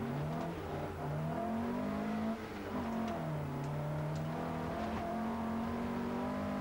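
Opel Ascona A rally car's four-cylinder engine heard from inside the cabin, pulling hard under acceleration: the engine note climbs, drops back at gear changes (one about two and a half seconds in), then climbs again and holds high.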